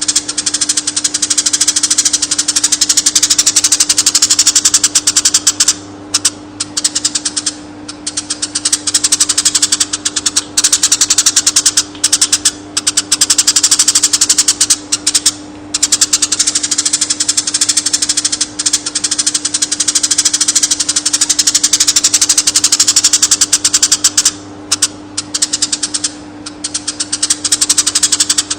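A konin bird singing a rapid, continuous high-pitched chattering trill, broken by short pauses several times, over a steady low hum.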